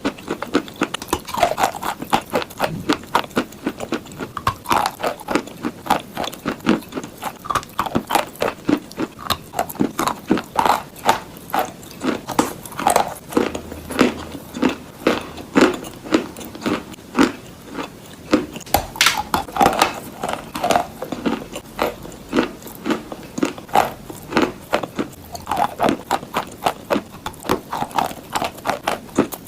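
A person chewing and crunching chalk close to the microphone: a steady run of crisp crunches, several a second.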